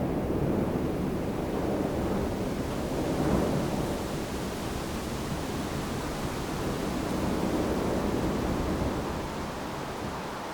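Wind blowing through a bamboo grove: a steady rushing that swells and eases in gusts, dropping a little in level near the end.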